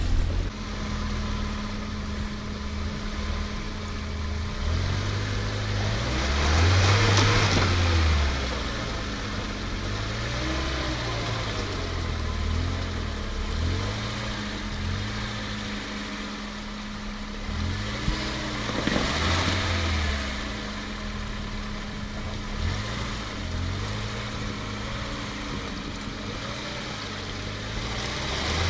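Off-road vehicle engine revving up and falling back again and again, with a steady hum underneath. A louder rush of noise about seven seconds in, and another about two-thirds of the way through.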